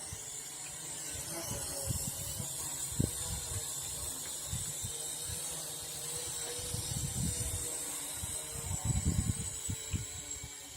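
Wind buffeting the microphone in irregular low gusts, the strongest near 3 s, 7 s and 9 s in, over a steady high-pitched whine from the Syma X8 quadcopter's motors in flight.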